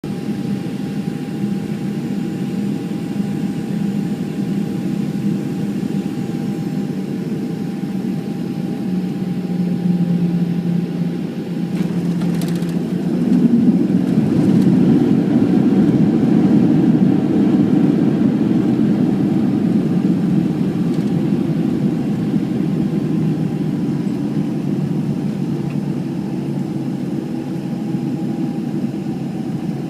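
Cabin noise of a Boeing 737-700 during landing, heard from a forward seat: steady jet engine and airflow noise. There is a sharp knock about twelve seconds in, then the noise swells for several seconds and slowly eases off.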